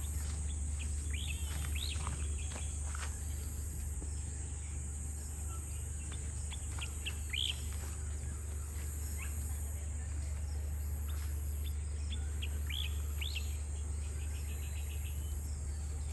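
Birds chirping in short calls and quick upward-sweeping notes scattered throughout, over a steady high insect drone and a steady low hum.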